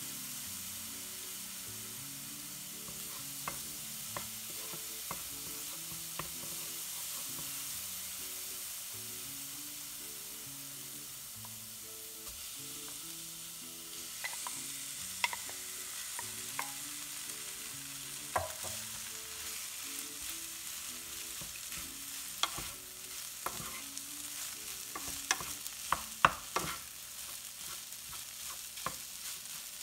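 Food frying in a pan with a steady sizzle, stirred with a utensil that clicks and scrapes against the pan. The clicks come more often in the second half.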